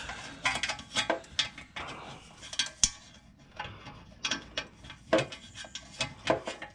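Irregular metallic clinks, taps and scraping of a wrench being worked onto a hard-to-reach oil filter, with one sharp, loud click about three seconds in.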